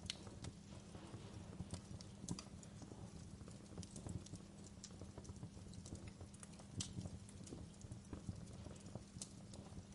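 Wood fire crackling in a fireplace: irregular small sharp pops and snaps, several a second, over a low steady rumble of the burning.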